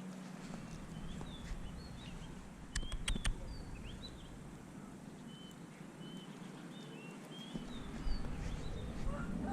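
Birds chirping and whistling in short repeated calls, with a quick cluster of sharp clicks about three seconds in. A low rumble comes in near the end.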